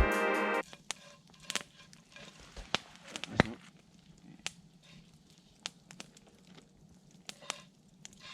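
Campfire crackling: scattered sharp pops and snaps at irregular intervals. Background music cuts off about half a second in.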